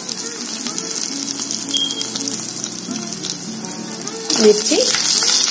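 Cashews frying in hot ghee in a steel pan: a steady crackling sizzle. About four seconds in the sizzle jumps louder as green chillies drop into the hot ghee. Soft background music plays underneath.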